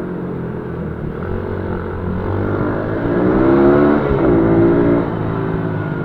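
A pit bike's small single-cylinder engine running and revving. Its pitch climbs about three seconds in, drops sharply a second later as the throttle comes off, then rises again.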